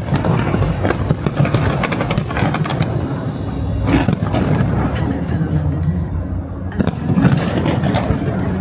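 A fireworks display: repeated bangs and crackling bursts, mixed with music playing loudly.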